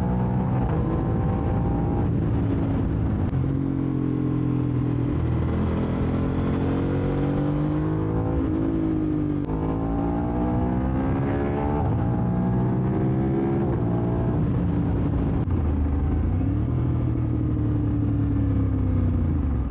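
Aprilia RS660's parallel-twin engine through an SC-Project SC1-R full exhaust, pulling hard through the gears: the pitch rises steadily, drops at each shift and climbs again, then falls away as the throttle comes off near the end.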